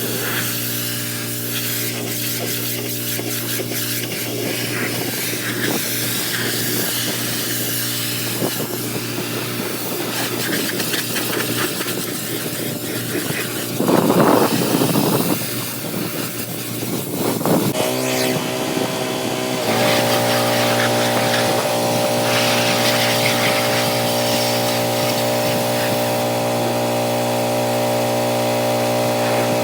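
Pressure washer running with a steady motor hum under the hiss of its high-pressure spray on a truck's bodywork. The spray gives a louder rush about halfway through, and near two-thirds of the way the motor's hum steps to a different, slightly louder pitch.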